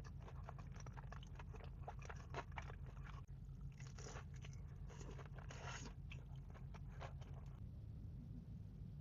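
Close-up eating sounds: a person biting and chewing crunchy food, a run of short, irregular crunching crackles.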